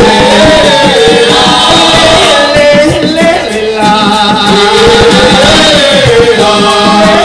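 A chorus of voices sings a Venezuelan folk song over hand drums and maracas, with a sung melody that rises and falls.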